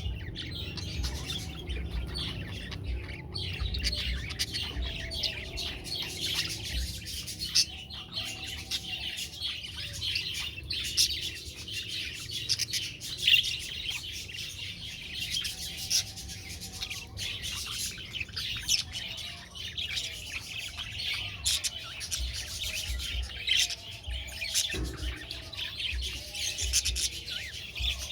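Budgerigars chirping and chattering continuously, a dense stream of many short, high calls overlapping.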